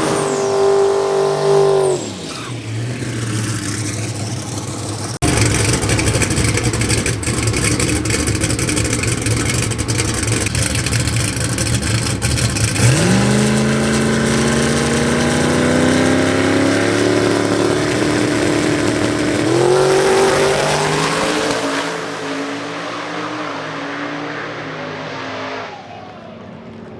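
Drag race car engines at full throttle down the strip. A high steady rev drops away, a sudden loud blast comes about five seconds in, and then an engine note climbs in pitch, steps up again, and fades into the distance near the end.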